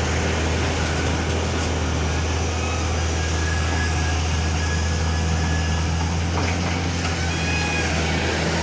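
Heavy diesel engine running at a steady speed with a constant low hum, with a few faint short high whines above it.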